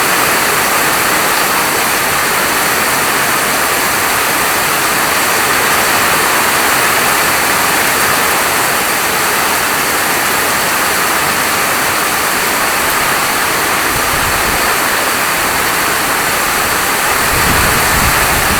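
Steady heavy rain falling, an even hiss. A low rumble swells in briefly about fourteen seconds in and again near the end.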